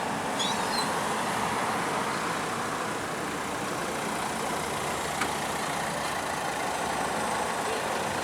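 Steady hum of road traffic, with a few faint bird chirps about half a second in.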